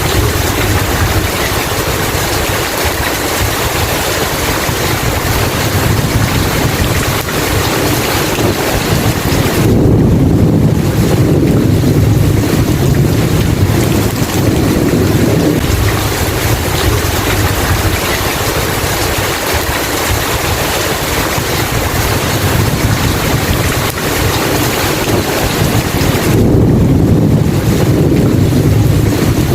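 Steady heavy rain with low rolling thunder, swelling twice: once about ten seconds in for several seconds, and again near the end.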